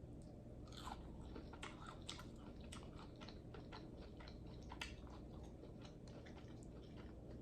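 Close-miked chewing and biting: faint, irregular wet mouth clicks and small crunches, several a second.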